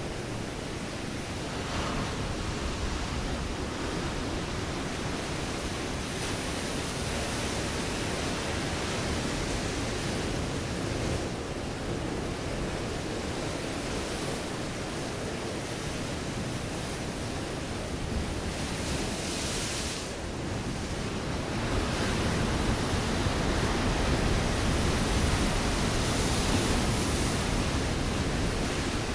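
Ocean waves breaking and washing over a rocky shore: a continuous roar of surf that swells and eases, louder in the last few seconds, with brief hissing rushes of foam and spray.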